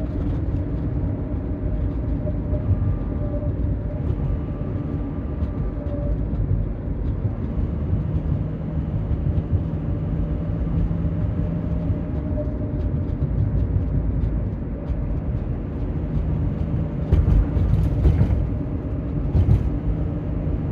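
2007 Honda Element drivetrain whining over steady low road rumble. The whine is a thin, faint tone, and the owner puts it down to the 4WD system. A few sharper bumps come near the end.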